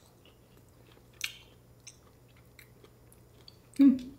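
A person chewing food close to the microphone, with soft wet mouth clicks and smacks. There is a sharper smack a little over a second in and a louder short burst near the end.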